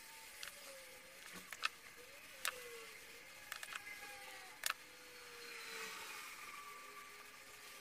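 Faint, scattered sharp clicks and taps, about eight over several seconds, from small parts being handled during work on a battery pack.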